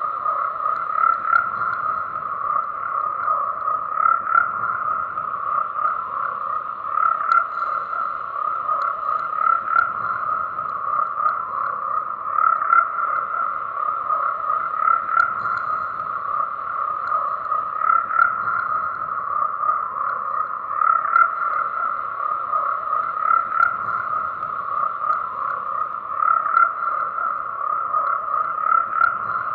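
Frogs croaking continuously in a dense chorus, swelling slightly about every three seconds.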